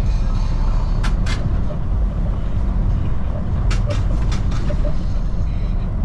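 Semi truck's diesel engine running, a steady low rumble heard from inside the cab, with a few sharp clicks: two about a second in and four more around the middle.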